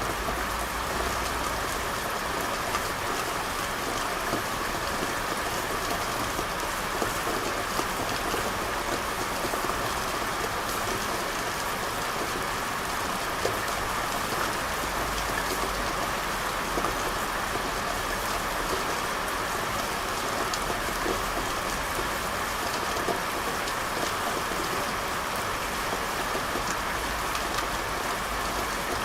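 Steady rain falling, an even hiss dotted with many small drop ticks, with no let-up.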